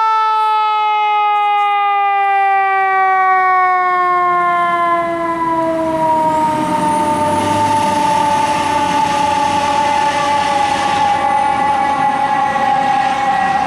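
Fire engine's siren winding down, one long tone with a slow steady fall in pitch, typical of a coasting mechanical siren. From about four seconds in, the truck's engine rumble and road noise come in under it.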